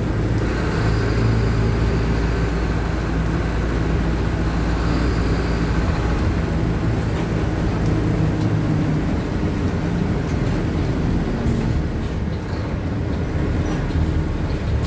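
Mercedes-Benz OF-1519 BlueTec 5 city bus's four-cylinder diesel engine running with the bus under way. The engine note holds steady, then changes about nine seconds in, with a few light clicks or rattles near the end.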